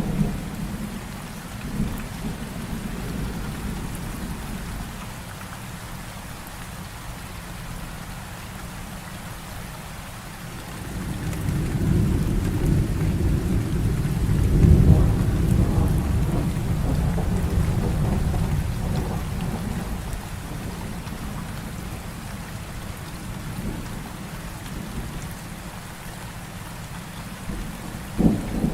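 Heavy rain falling steadily, with a long low roll of thunder that builds about a third of the way in, peaks, and slowly fades. A few short, sharp thunder cracks come near the start and near the end.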